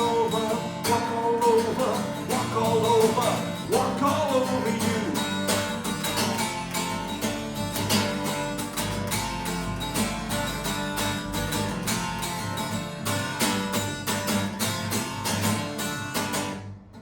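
Acoustic guitar strummed in a steady rhythm, with a singing voice over it for the first four seconds or so; the strumming stops suddenly near the end as the song finishes.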